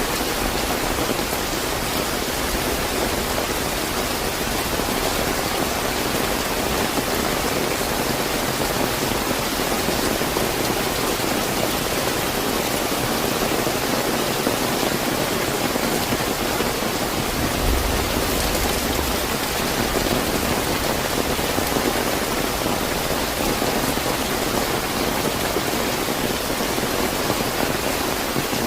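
Slightly heavy rain falling steadily, an even hiss of many drops, with a brief low rumble about two-thirds of the way in.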